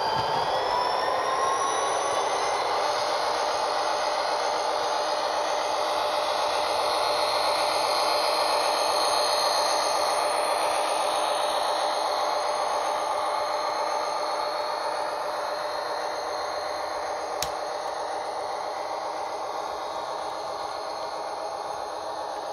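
Model train running on its track, a steady motor whir with wheel noise. The pitch rises over the first couple of seconds as it speeds up, then holds steady and fades a little near the end. A single sharp click comes about 17 seconds in.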